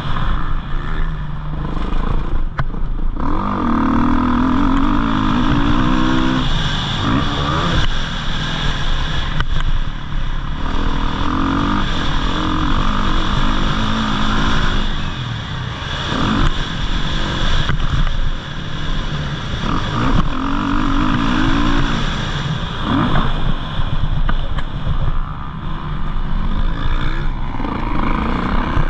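Motocross dirt bike engine revving up and dropping off in repeated swells every few seconds, its pitch climbing and falling with each run of acceleration.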